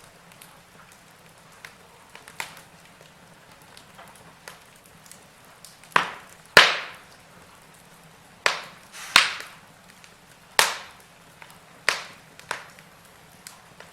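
Burning logs in a wood fire crackling, with irregular sharp pops over a low hiss. The loudest two pops come about six seconds in, followed by a cluster of pops about two to six seconds later.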